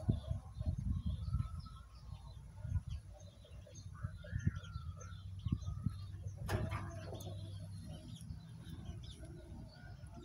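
Birds calling and chirping in the background over a low rumble on the microphone, with one sharper, louder sound about six and a half seconds in.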